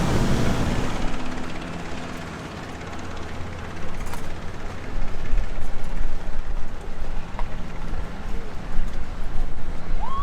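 Motorboat engines running steadily, with water and wind noise.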